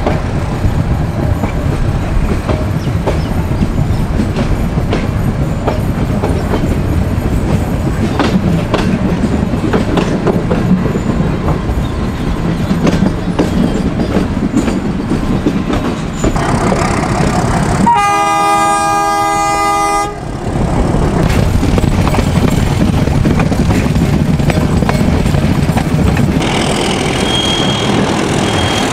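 Metre gauge passenger train running, with the steady rumble and clatter of the coach wheels on the track. About two-thirds of the way through, the diesel locomotive's horn sounds one long blast of about two seconds. A faint high squeal comes and goes near the end.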